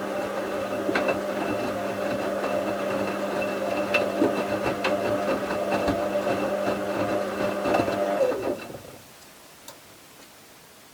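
Bauknecht WA 7778 W front-loading washing machine's motor turning the drum with wet towels during the wash, a steady motor hum with knocks and clatter from the tumbling load. About 8 seconds in, the motor winds down and stops for the drum's rest pause, and the machine goes quiet.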